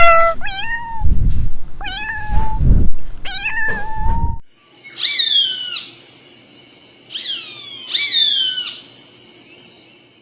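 A cat meowing over and over. After a brief break there are three shorter, higher meows that fall sharply in pitch.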